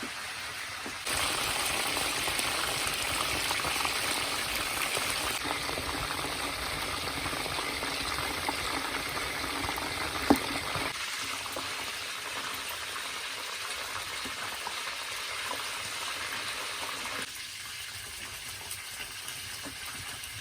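Food sizzling and bubbling in hot fat. It starts suddenly about a second in and is loudest over the first half, with one sharp click near the middle, then settles lower twice.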